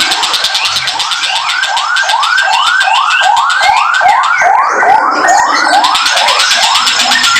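Tengkek buto kingfisher calling a long, even series of rising-and-falling notes, about two and a half a second, over a fast high ticking.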